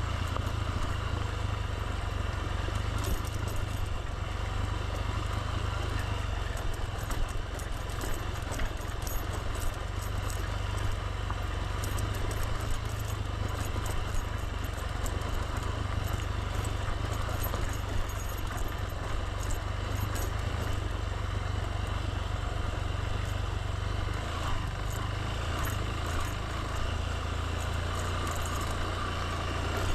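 Motorbike engine running steadily with a low drone, overlaid by a haze of road and wind noise and light rattling clicks.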